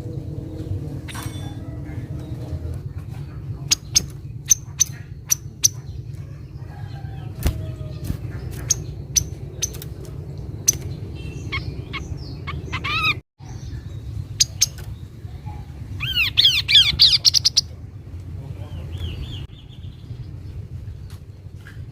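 Kaso-kaso bird calling: a string of sharp, short chirps, then a loud rapid run of quick rising-and-falling notes a little past the middle. A steady low rumble sits under the calls.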